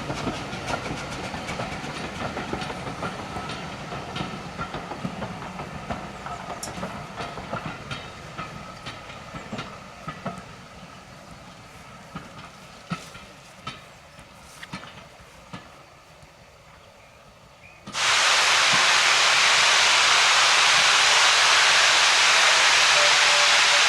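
A steam train's wheels clicking over the rail joints, fading as it draws away. About three-quarters of the way through, a loud, steady hiss of steam blowing off from a locomotive cuts in suddenly.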